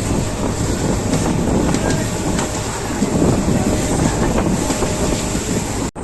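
Passenger train running at speed, wheels rumbling on the rails with faint clicks, with wind noise on the microphone. The sound cuts out for an instant near the end.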